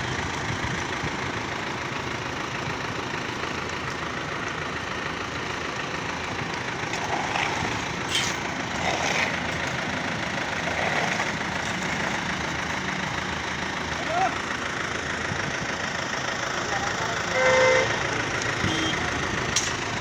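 Road construction machinery with its engine running steadily, a continuous loud rumble. A short horn toot sounds near the end.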